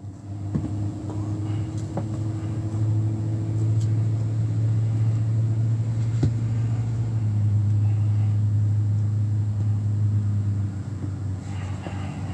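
A steady low rumbling hum with a few faint clicks; a higher tone above it drops lower about seven seconds in.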